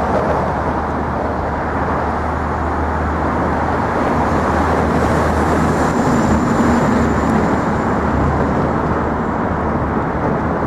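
Loud, steady roar of traffic on the Manhattan Bridge, with a low hum underneath and a faint higher whine about halfway through.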